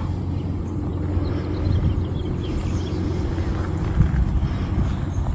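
Steady outdoor wind rumble with the faint, even buzz of a small electric RC plane's motor and propeller flying at part throttle, and one light click about four seconds in.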